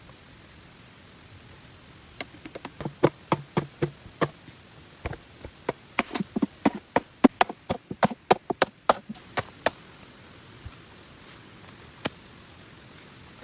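A hand tool striking wood in a run of quick, sharp chops and knocks, irregular and about three a second at the busiest, then thinning to a few single knocks. A steady hiss of rain runs underneath.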